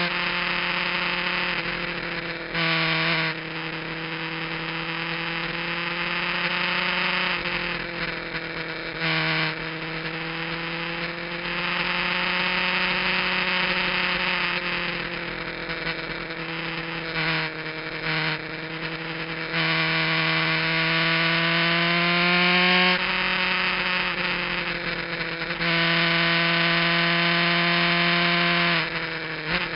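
Kawasaki GPZ900R's inline-four engine on track, heard through a cheap onboard action camera, its revs rising and falling with throttle and gear changes. One long climb in pitch near the end of the middle stretch is cut off by a sudden drop at the next shift.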